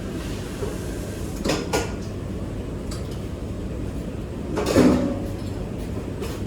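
Kitchen clean-up noise: a couple of short knocks, then a louder clatter near five seconds in, over a steady low hum.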